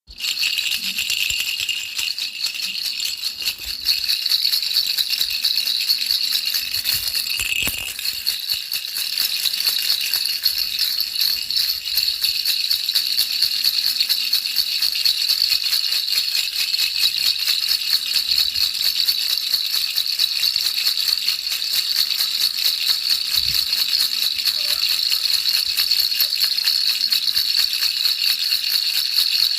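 Baby rattle shaken continuously in a fast, even rattle, used as soothing white noise for a baby's sleep.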